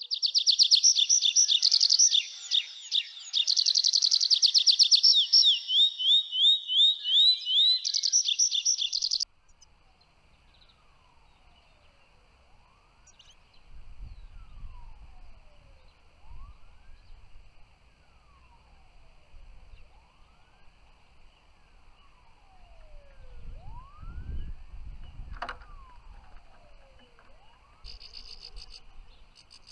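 European goldfinch singing: a loud, fast twittering of high trills and quick rising notes that cuts off suddenly about nine seconds in. After that only a faint steady high buzz with low rumbles remains, and a pulsing high chirp starts near the end.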